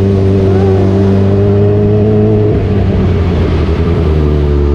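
Kawasaki Z1000R inline-four engine running at steady speed, with a rough break about two and a half seconds in after which the engine note comes back lower and starts climbing again, as in an upshift under acceleration.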